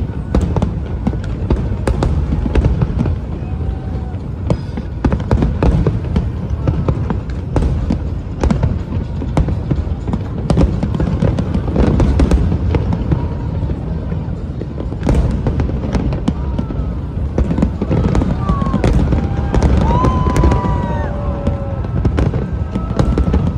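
Fireworks going off in continuous rapid succession: a dense run of booms and sharp bangs, with crowd voices mixed in.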